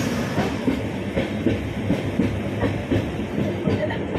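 Passenger train running along the track, heard from inside a Vistadome coach: a steady low rumble with irregular clacks and knocks from the wheels over the rails.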